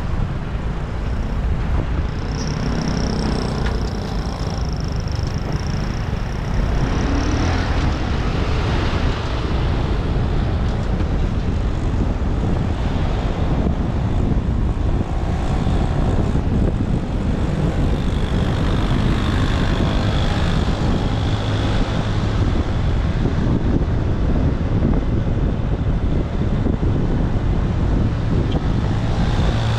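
Motorbike riding in city traffic: steady engine and road rumble with wind buffeting the microphone, and a thin high whine for a few seconds early in the ride.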